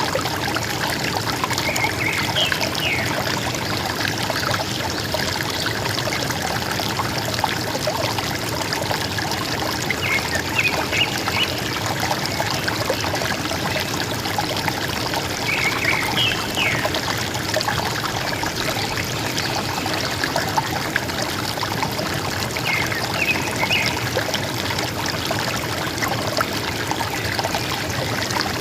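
River water trickling and gurgling steadily, with a bird giving short chirps four times, a few seconds apart.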